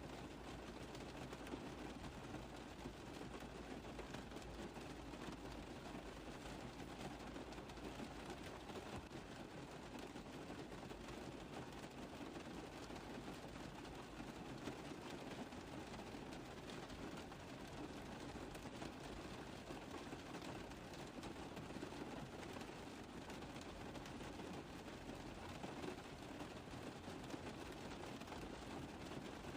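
Rain falling on a car roof: a dense, steady patter of drops without let-up.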